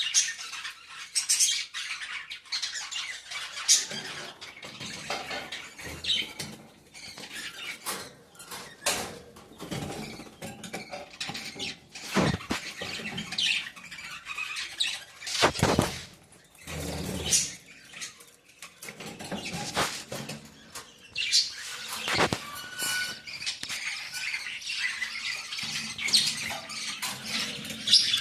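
A flock of small pet parrots (lovebirds and budgies) squawking and chirping continuously, with a few sharp knocks.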